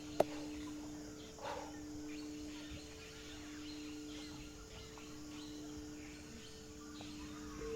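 A steady low drone of two held notes a fifth apart, under faint scattered chirps. A sharp click comes just after the start.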